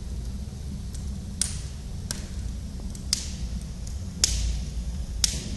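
Wood fire burning in a fireplace: the logs crackle, with about five sharp pops spaced roughly a second apart and fainter ticks between them, over a steady low rumble.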